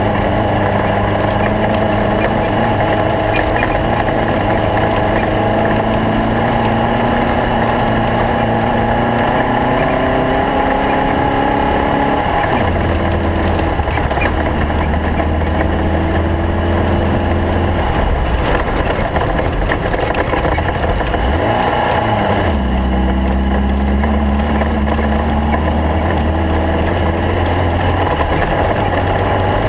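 Air-cooled Volkswagen flat-four engine of a stock-class VW Bug desert race car running hard under load. Its pitch climbs slowly, then drops sharply about twelve seconds in and again about twenty-two seconds in, as at gear changes.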